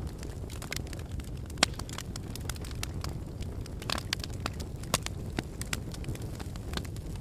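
Wood fire in a fireplace crackling steadily over a low rumble of flames, with a few louder pops about one and a half, four and five seconds in.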